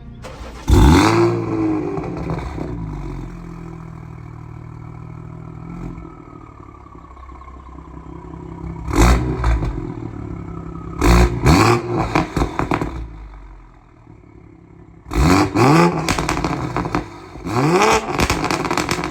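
Tuned BMW 540i turbocharged inline-six with catless downpipe and Armytrix cat-back exhaust, revved hard in about five short bursts with pitch rising and falling, crackling and popping on the exhaust between a steady low idle.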